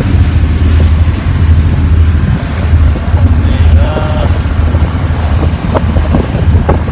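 A passenger boat's engine running steadily under way, a constant low hum, with wind buffeting the microphone.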